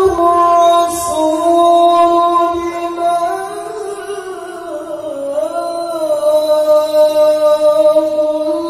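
A male qari reciting the Quran in a very high voice, holding long, drawn-out notes with a slow dip in pitch about halfway through.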